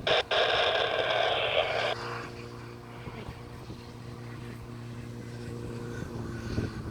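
Airband radio hiss with a couple of brief dropouts for about two seconds, then a jet airliner's engines running with a steady hum as it is cleared for takeoff.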